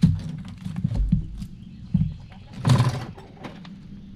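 A few sharp metal knocks and clicks from tools being handled at the truck's front wheel hub, with a short, rougher clatter about two and a half seconds in.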